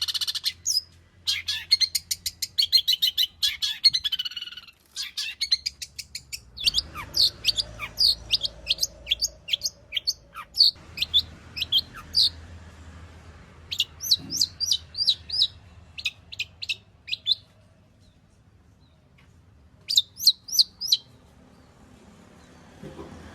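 Long-tailed shrike (cendet) singing a fast, varied song full of mimicked notes: a dense rapid chatter for the first few seconds, then groups of sharp, quick notes separated by pauses, with a quiet stretch near the end.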